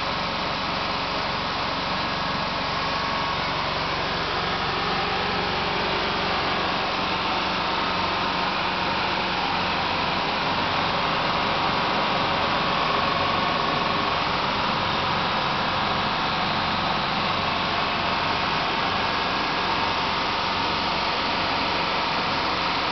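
Car air-conditioning compressor running with the engine idling: a steady mechanical whirring noise with faint constant tones that holds even throughout.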